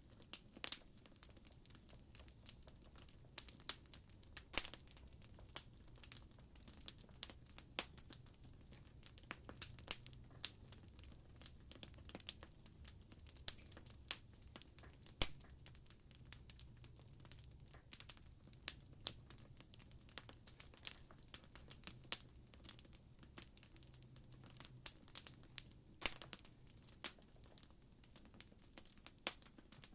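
Crackling fire: irregular sharp pops and snaps, several a second, over a low rumble of burning.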